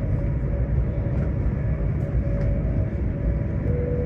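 Cabin noise of a high-speed train running at speed: a steady low rumble with a faint steady whine. The whine shifts slightly lower near the end.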